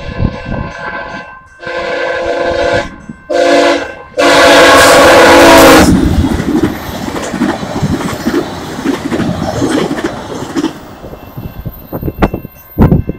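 A VIA Rail passenger train's locomotive horn sounds for a level crossing: a long blast, a short one, then a final long blast, the loudest. The train then rushes past at speed, its wheels clattering over the rail joints, and the sound fades about ten seconds in.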